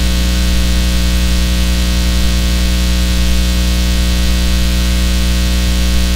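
A loud, steady hum with a hiss over it, unchanging throughout.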